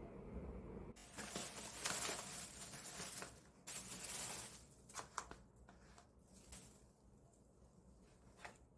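Packaging rustling and tearing for a few seconds, then a few light clicks and taps.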